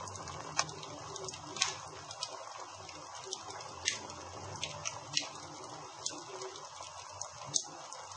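Campfire crackling: a steady hiss of burning wood broken by sharp, irregular pops, several of them louder, at about one and a half, four, five and seven and a half seconds in.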